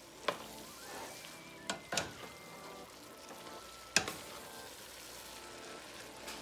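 Spaghetti noodles in oyster sauce sizzling in a hot pot while being stirred, with a few sharp clacks of the stirring utensil against the pot, the loudest about four seconds in.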